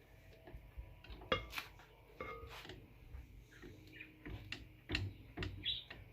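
Scattered clinks and knocks of kitchen utensils against a mixing bowl, over a faint low hum.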